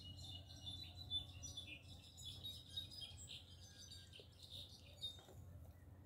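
Small birds chirping and twittering faintly, a dense run of short high calls that thins out about five seconds in.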